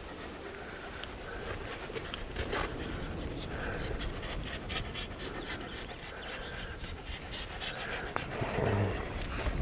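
A dog panting in quick, rhythmic breaths, over a steady high hiss.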